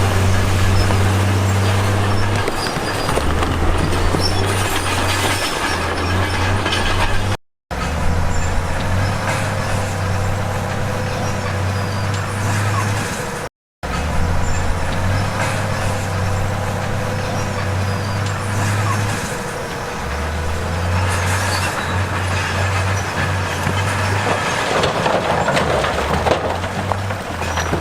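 Heavy diesel earthmoving machinery running, a steady deep engine drone that cuts out to silence twice for a moment.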